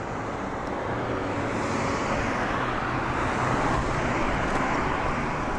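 Road traffic noise: a car passing close by, its tyre and engine noise swelling about two seconds in.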